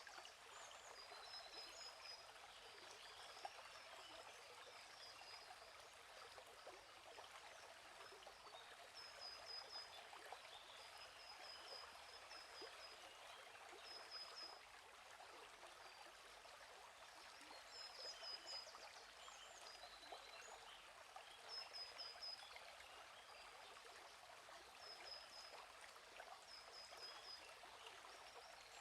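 Faint, steady flow of a gently running stream, with a bird's short run of high chirps repeating every few seconds.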